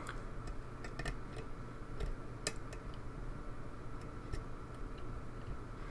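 Faint, irregular metallic ticks of a hook pick probing the pins of a pin-tumbler lock under tension, a few sharp clicks scattered through. No pin is setting, which the picker takes for pins overset again.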